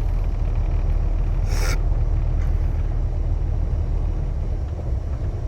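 Heavy truck's diesel engine running at a steady low idle. About a second and a half in comes a short hiss.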